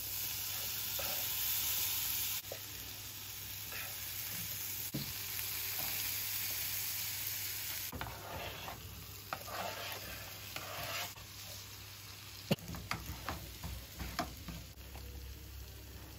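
Onions and cumin sizzling in hot palm oil in a frying pan, with a loud, even hiss for the first several seconds. Partway through, chopped tomatoes are tipped in and a wooden spoon stirs the mix, with scrapes and knocks against the pan near the end.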